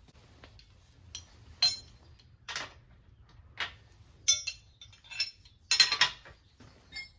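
Hard small objects clinking and knocking against each other, about eight irregular strikes with a short ring after some of them, the loudest cluster about six seconds in.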